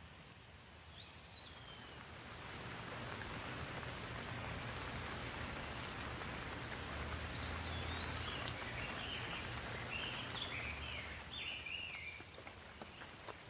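Steady rain falling, swelling in strength a couple of seconds in and easing off near the end. A bird chirps once early and gives a run of short chirps in the middle.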